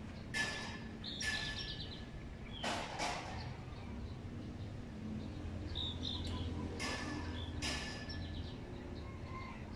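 Birds chirping: several short, harsh calls with quick repeated notes, over a steady low hum.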